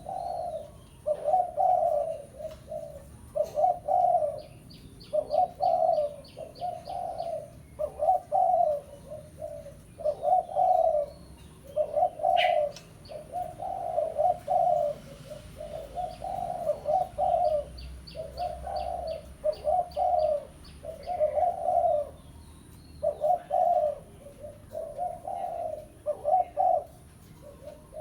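Spotted dove cooing its lure call: a low coo phrase repeated steadily about every second and a half, used to call rival doves in.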